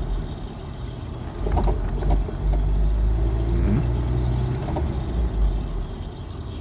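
1992 Ford Ranger pickup with a manual gearbox, heard from inside the cab while driving: steady engine and road rumble. The engine note rises briefly a little past halfway, and there are a few light clicks.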